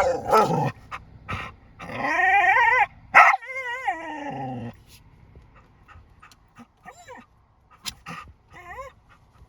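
Australian Shepherd whining and yipping: long wavering whines, the loudest about two to five seconds in with the last one falling in pitch, then a few short fainter whimpers near the end.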